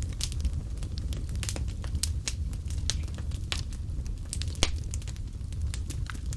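Fireplace fire crackling, with irregular sharp pops and snaps over a steady low rumble of flames. One pop about two-thirds of the way in is louder than the rest.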